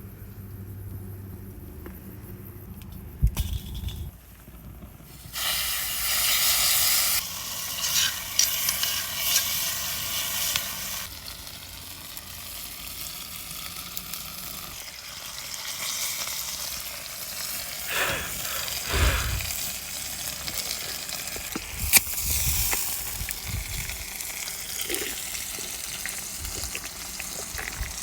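Horumon (offal) sizzling and crackling in fat on a hot pan over a campfire, with a knock about three seconds in. A louder hiss starts about five seconds in, then settles into a steady crackling sizzle.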